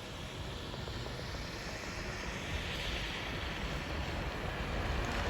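Jet airliner's engines, a steady rushing noise that grows gradually louder as the aircraft approaches.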